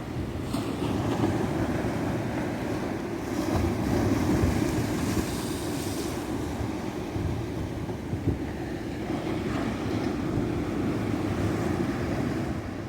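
Ocean surf washing onto a beach: a steady rush of breaking waves, with one wave's hiss swelling louder a few seconds in.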